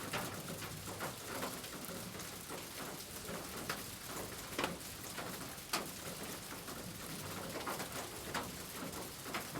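Steady rain with scattered sharper taps of drops, and pigeons cooing low.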